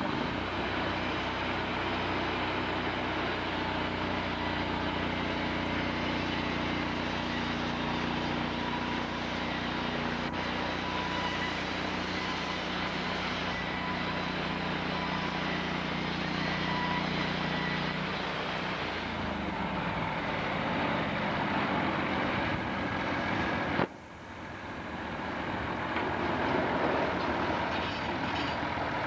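Sawmill running: a steady engine note under a dense mechanical noise. The engine note changes about two-thirds of the way in. Near the end the sound drops off abruptly, then builds up again.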